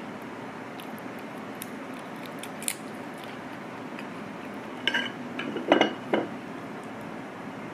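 Small kitchenware clicks, then a few louder clinks and knocks about five seconds in, over a steady background hiss.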